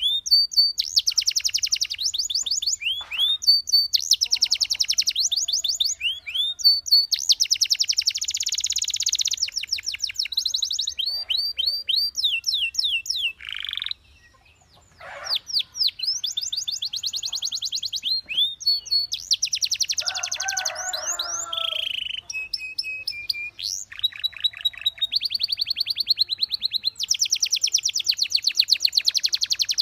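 Canary singing a long, loud song of fast trills and rolling tours, with a pause of about a second midway and a few lower bubbling notes a little after it.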